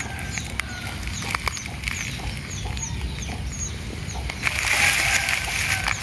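A small bird cheeping in a quick series of short, high, falling notes, about three a second, then dry leaves and grass rustling loudly from a little past halfway as a hand rummages through them.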